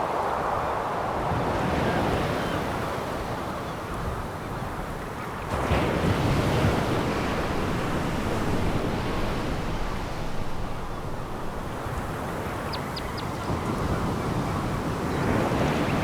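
Sea waves breaking on a pebble beach, the surf swelling and falling in waves, with a sudden louder break about five and a half seconds in. A few faint high clicks come near the end.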